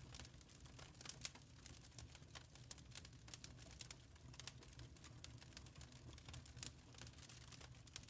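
Wood fire crackling in a fireplace, faint, with frequent irregular pops and snaps over a low steady rumble.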